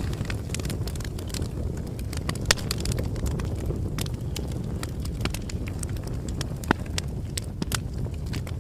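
Wood fire burning, with a steady low rumble and irregular sharp crackles and pops, a few louder snaps among them.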